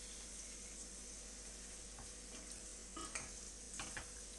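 Chicken pieces and chopped onion frying in hot oil in a pot, a faint steady sizzle, while a wooden spoon stirs them, with a few light knocks of the spoon against the pot about three seconds in.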